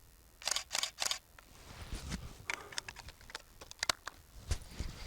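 Camera clicks and handling noise: three sharp, loud clicks close together about half a second in, then a run of lighter ticks.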